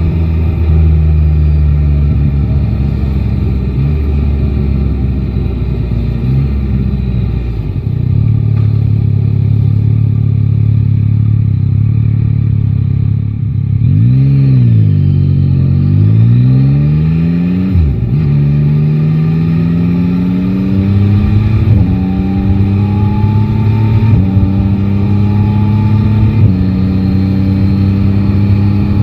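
Three-cylinder motorcycle engine running in city traffic: steady at first, then holding a low even note, then a few quick rises and falls in pitch from the throttle. In the second half it accelerates through the gears, the pitch climbing and dropping at each of three upshifts.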